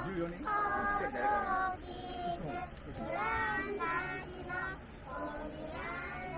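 High children's voices singing in several held, gliding phrases, with short breaks about two seconds in and again near five seconds.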